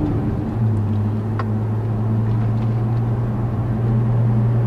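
Nissan 350Z's 3.5-litre V6, with a decat and an Injen cat-back exhaust, droning steadily while driving, heard from inside the cabin. The note dips briefly just after the start, and there is a light click about a second and a half in.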